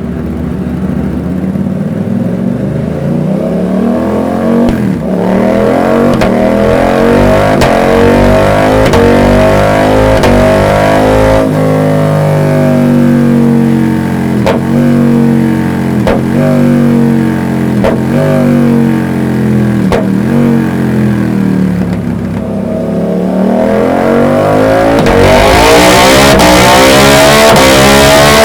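Suzuki GSX-8S 776 cc parallel-twin engine and exhaust under load on a dyno. The pitch rises and falls several times, with short sharp cracks at intervals, and climbs to its loudest in a long rev near the end.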